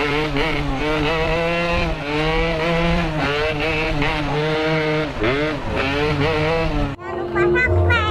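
Yamaha RX-King two-stroke motorcycle engine revving through a Boban C33 aftermarket exhaust, its pitch rising, holding and dropping again over and over. Near the end it cuts to a few short, quick rising revs.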